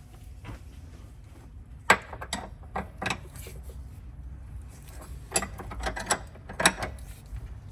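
Ratchet wrench clicking with metal tool clinks, in two groups of sharp clicks about two seconds in and again around five to seven seconds in.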